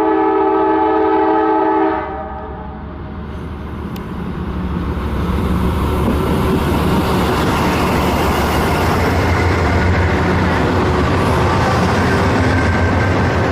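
Train horn sounding a chord of several tones, cutting off about two seconds in, then the train passing close by: a loud rumble of wheels on the rails that builds over the next few seconds and then holds steady.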